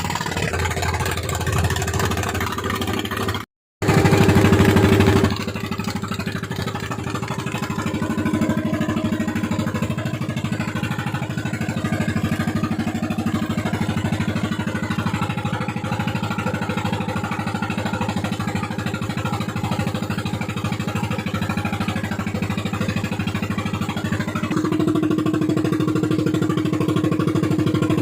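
Fishing boat's engine running hard at high throttle, steady, with a short break in the sound about three and a half seconds in and a rise in level over the last few seconds.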